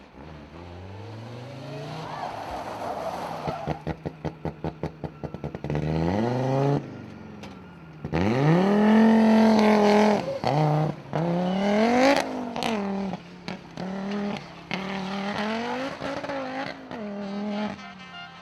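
Rally car engine revving hard: a rapid stuttering pulse about four to six seconds in, then a loud climb in revs with several quick drops in pitch as it changes gear, and a couple of sharp cracks around the middle.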